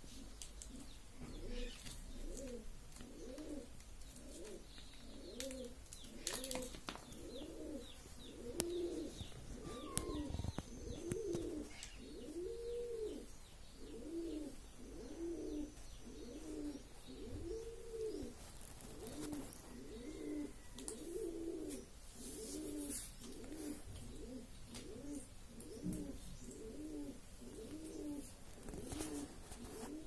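A bird cooing over and over in a steady low rhythm, about one coo a second, with a few faint clicks.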